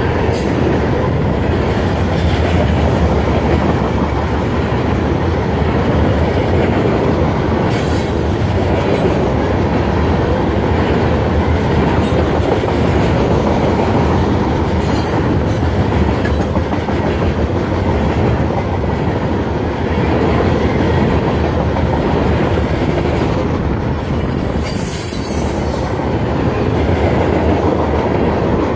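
Loaded covered hopper cars of a freight train rolling past at close range: a steady rumble of steel wheels on the rails, with a few short high-pitched wheel squeals, the longest about 24 seconds in.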